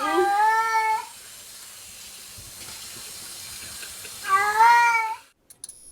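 A cat giving two drawn-out, wavering meows, each about a second long and some four seconds apart, over a steady hiss. The sound cuts off suddenly just after the second meow, leaving a few faint electronic beeps.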